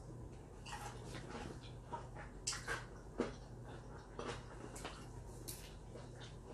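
Close-up chewing of a Hot Cheeto–crusted fried pickle: irregular crunches and wet mouth clicks, loudest around two and a half to three seconds in.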